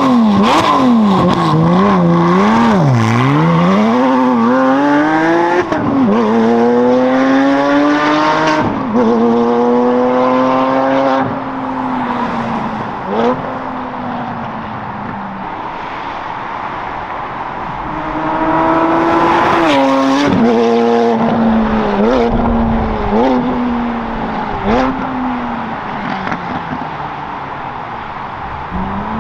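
Porsche Cayman's 3.8-litre flat-six engine accelerating hard through the gears: the revs climb, drop sharply at each upshift, and climb again. It then settles into a quieter steady run with the revs falling, before another hard pull with a shift about twenty seconds in.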